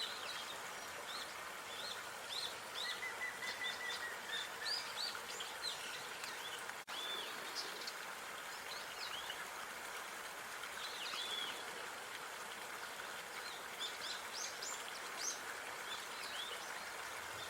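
Small songbirds chirping and twittering in quick short calls over a steady outdoor background hiss, with a brief moment where the sound drops out about seven seconds in.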